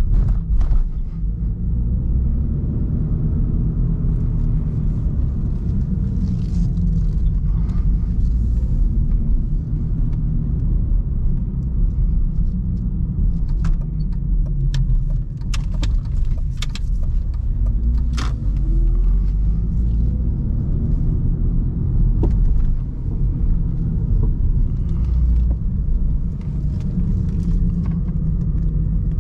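BMW E46 316i four-cylinder car being driven: a steady low engine and road rumble, with the engine note gliding up and down as it speeds up and eases off. A few short clicks or knocks come through about halfway in.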